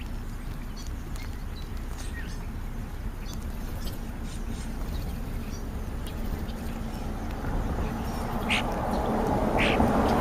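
Birds calling: faint scattered chirps, then two short harsh calls near the end, over a rising rush of background noise.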